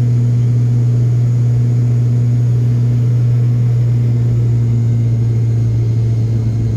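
Airliner cabin noise during the climb just after takeoff: the engines and airflow make a loud, steady low hum.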